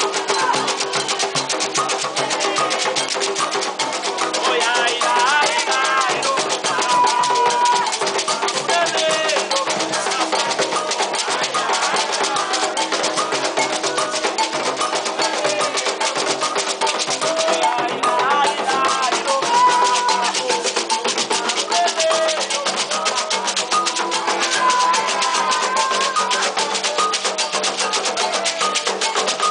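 Afro-Brazilian ritual music for Xangô: hand drums and rattles play a dense, fast rhythm while voices sing a chant.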